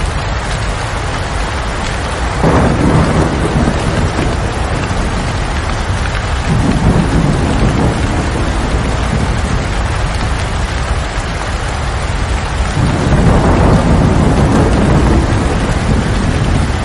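Steady rain falling, with a low rumble swelling up three times: about two and a half, six and a half, and thirteen seconds in.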